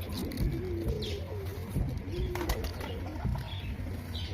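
Pigeons cooing in repeated low, wavering phrases, with small birds chirping briefly at a higher pitch over a steady low hum.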